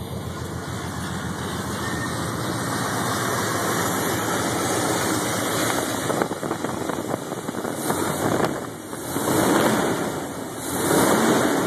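Rebuilt Chevy 305 small-block V8 running through headers and glasspack mufflers, idling steadily. It is revved up and let back down twice near the end.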